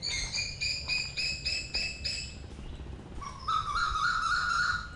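Asian koel calling: a quick series of repeated notes, about four a second, edging up in pitch, then after a short pause a lower stuttering call that climbs in pitch.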